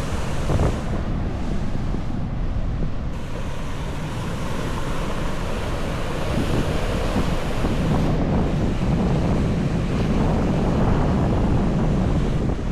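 Ocean surf washing in steadily, with wind buffeting the microphone in a heavy low rumble.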